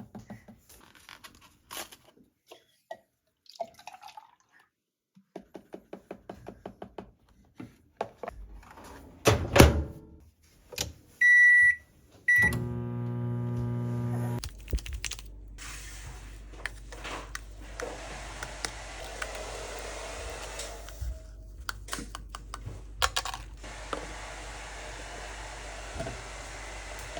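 Kitchen handling noises, with clicks and knocks and one loud thunk, then a kitchen appliance beeps twice and starts running, first with a steady hum and then with a steady whirring noise.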